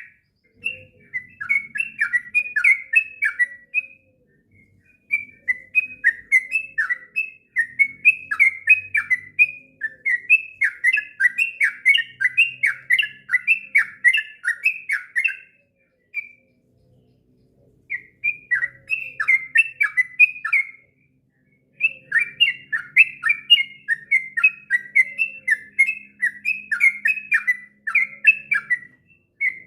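Yellow-vented bulbul (trucuk) singing a long, rapid 'ngropel' run of bubbly chirping notes, in long bursts broken by a few short pauses.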